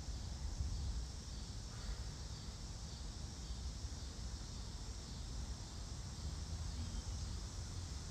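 Outdoor ambience: a steady, even high-pitched insect chorus, such as crickets, over a low, wavering rumble.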